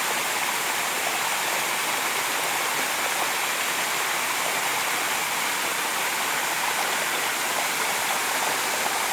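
A waterfall pouring into a pool: a steady, even rush of water that holds constant throughout.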